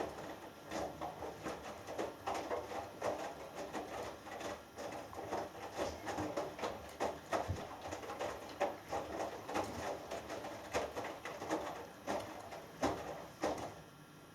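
Hoover Dynamic Next washing machine drum tumbling a wet cotton load: water and laundry slosh and slap in uneven pulses with the odd knock. It stops just before the end as the drum pauses.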